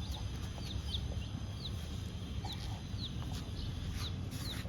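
Young chicks peeping: short, high, falling cheeps repeated about twice a second.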